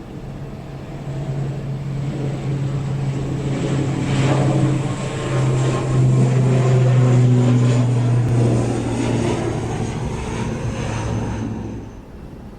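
Airliner engines as the aircraft passes close by, a steady low hum under a rushing noise that builds to its loudest in the middle, then stops suddenly near the end.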